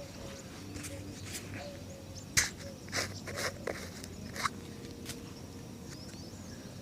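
Shoe-shining work: a handful of sharp taps and knocks bunched in the middle, the first the loudest, over a steady low background hum.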